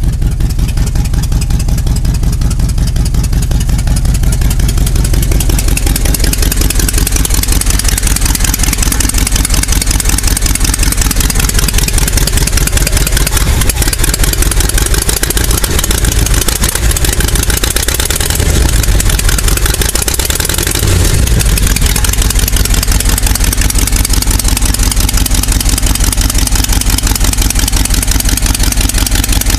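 1987 GMC 2500's 350 small-block V8 running cold after a long sit, with a slight skip that is expected to clear once it warms up. The engine note wavers around the middle, then settles a little louder.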